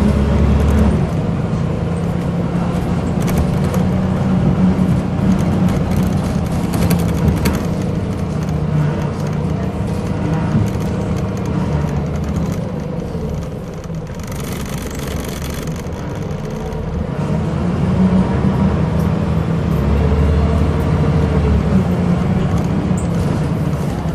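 Scania L94UB bus heard from inside, its diesel engine running under load with the pitch rising and falling as it pulls through the gears. About halfway through the engine eases off and there is a short hiss.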